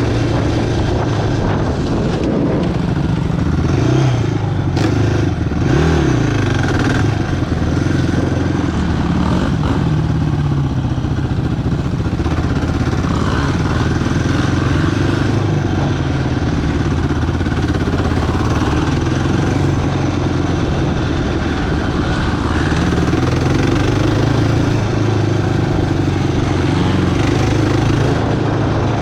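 Quad bike engine running on the trail, rising and falling with the throttle several times in the first ten seconds, then holding a steadier pitch.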